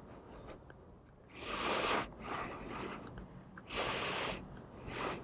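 A person breathing close to the microphone: hissy breaths in and out, one cycle about every two seconds.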